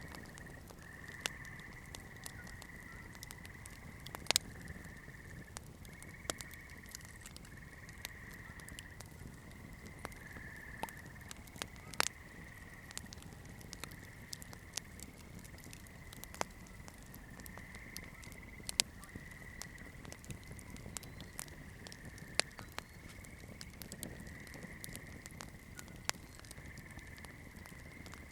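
Wood campfire burning: scattered sharp crackles and pops with several louder snaps, over a low rumble of the flames. A thin high-pitched whine comes and goes in the background.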